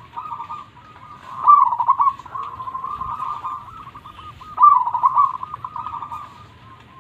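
Zebra dove (perkutut) cooing in repeated phrases of rapid, rolling coos, with loud phrases about a second and a half in and just before five seconds, and softer trilled coos between them.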